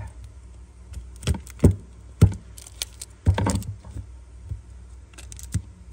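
Metal clicks and clinks of Zippo lighters being handled: a handful of sharp separate clicks, with a longer clattering cluster about three seconds in.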